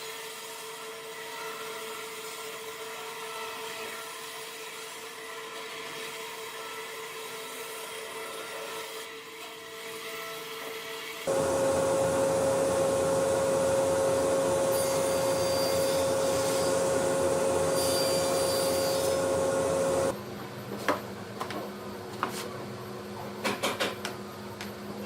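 Electric power tool motors running steadily with a held whine. A louder, higher-pitched one runs for about nine seconds from the middle, then stops, and a few light knocks of wood or tools follow.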